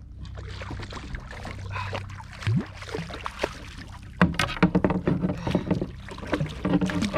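Water splashing and lapping against a Hobie fishing kayak, with scattered knocks and clicks from gear being handled on board. The knocking becomes louder and busier about four seconds in.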